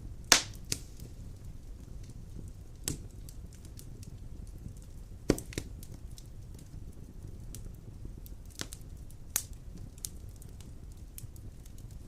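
Wood fire burning in a stone fireplace: a low steady rumble of flames with scattered crackles and sharp pops, the loudest about a third of a second in, about five seconds in and about nine seconds in.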